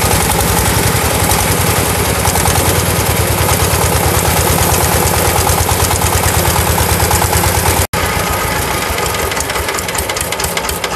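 Sifang 20 hp single-cylinder diesel engine running steadily with an even, pulsing firing rhythm. The sound changes slightly about eight seconds in and eases off near the end.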